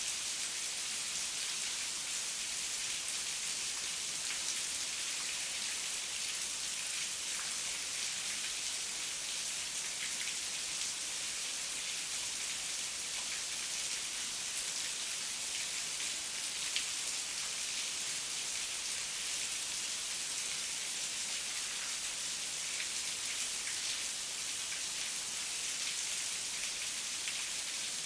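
Steady heavy rain falling, an even hiss with scattered drop ticks and no thunder.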